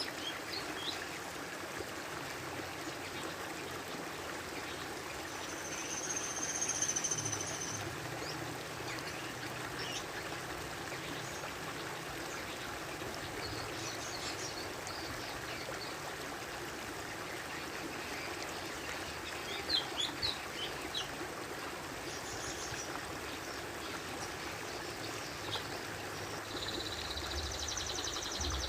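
A steady trickle of running water, with short high bird chirps breaking in now and then, a cluster about twenty seconds in.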